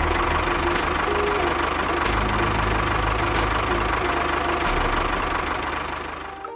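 Engine running steadily at a constant speed, with faint clicks about every second and a bit; it fades out near the end.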